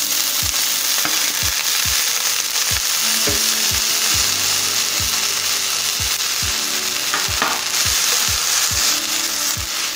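Broccoli florets sizzling loudly in hot melted butter in a stainless-steel skillet, turned with a spatula near the end.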